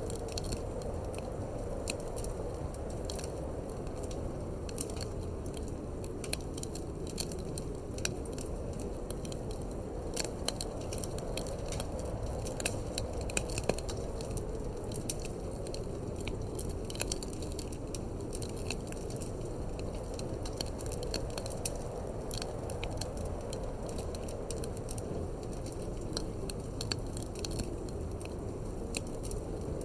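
Wood fire crackling in a fireplace, with frequent sharp pops and snaps scattered throughout, over a steady low wind that slowly swells and eases.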